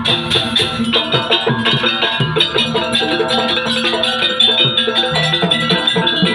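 Live jaranan campursari music: drums and struck, ringing percussion play a busy, even rhythm over sustained pitched notes.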